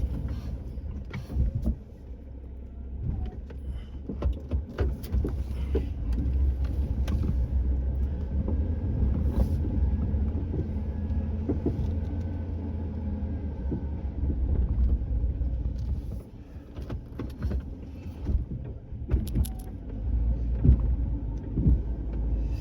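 Vehicle engine running steadily, with scattered knocks and clanks and two brief dips in loudness, about two seconds in and again about two-thirds of the way through.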